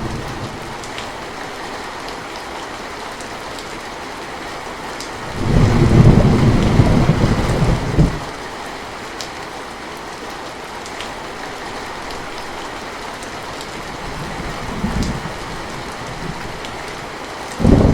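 Steady rain with scattered drops ticking, under rolls of thunder: a loud low rumble about five seconds in that cuts off sharply some three seconds later, a brief faint rumble near the end, and another loud rumble starting right at the end.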